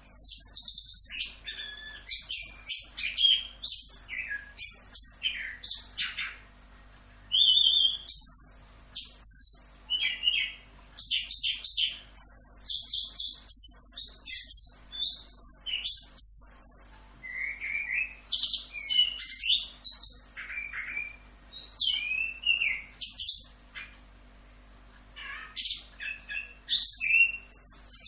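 Chestnut-capped thrush (anis kembang) singing a fast, varied rolling song of quick chirps, whistles and pitch glides, pausing briefly about six seconds in and again near the end.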